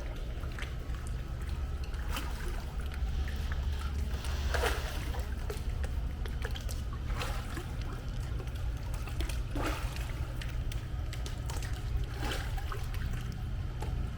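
Pool water splashing and sloshing in irregular small bursts as someone exercises in it, over a steady low rumble.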